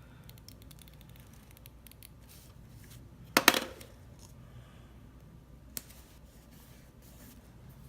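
Tombow Mono correction tape run across a sticker, giving a quick train of fine clicks, then one sharp clack, the loudest sound, a little before the middle, and a lighter click later on.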